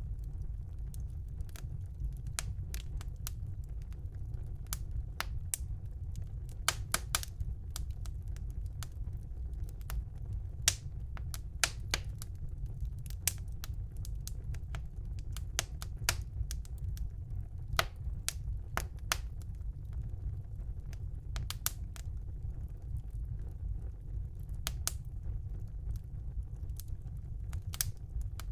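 Wood fire burning in a fireplace: irregular sharp crackles and pops from the burning logs, some louder than others, over a steady low rumble of the flames.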